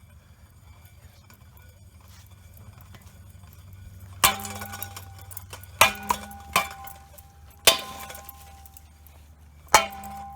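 Hampton Bay Littleton ceiling fan running badly out of balance with two of its blades gone, its motor humming steadily under a light rattle. From about four seconds in, it gives six sharp, irregularly spaced clanks, each ringing on briefly, as the wobbling fan knocks.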